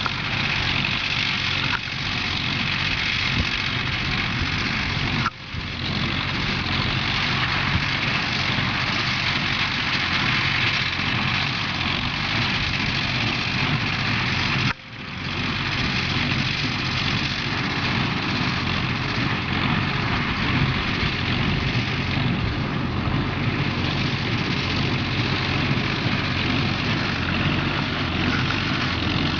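Minneapolis-Moline ZAU tractor engine running steadily under load, pulling an Allis-Chalmers baler through hay. The sound briefly drops out twice, about five and fifteen seconds in.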